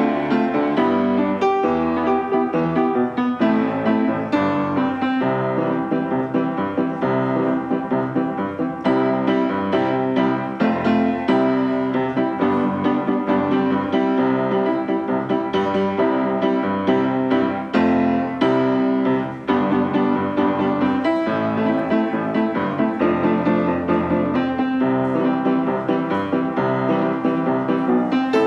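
Background piano music: a steady flow of notes with no singing.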